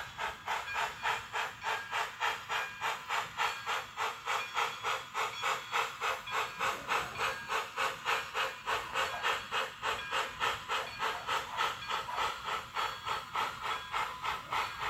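TCS digital sound decoder playing steam locomotive exhaust chuffs through a small Soundtraxx Mega Bass speaker in the tender of a Bachmann On30 2-6-6-2 model, in a steady rhythm of about four chuffs a second.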